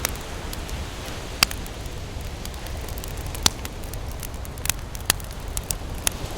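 Wood campfire crackling, with a handful of sharp pops standing out over a steady low rush of ocean surf.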